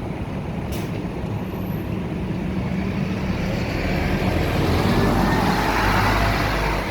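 Scania K230UB city bus's diesel engine running, growing louder to a peak about five to six seconds in, then easing off.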